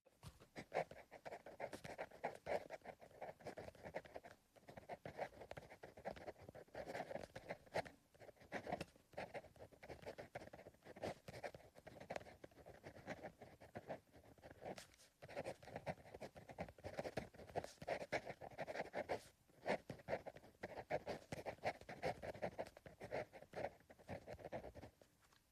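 Pencil writing on paper: quick scratchy strokes in runs, with brief pauses between them.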